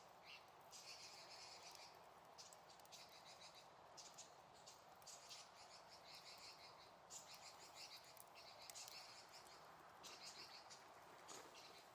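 Faint outdoor ambience: short bursts of rapid, high chirping trills repeat about once a second over a soft steady hiss.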